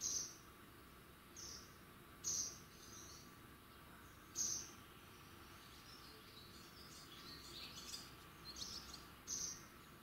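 Short, high-pitched calls from a small songbird, with about five sharp calls spaced irregularly and a run of softer chirps between about six and nine seconds in. A faint steady outdoor background lies underneath.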